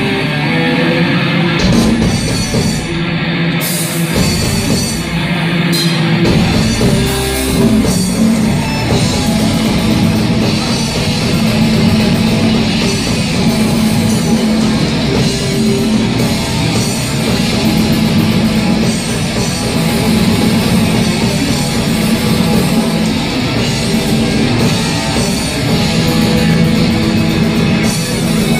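Live heavy metal band playing loud: distorted electric guitars and a drum kit, with a few sharp stops and hits in the first several seconds before the full band runs on continuously.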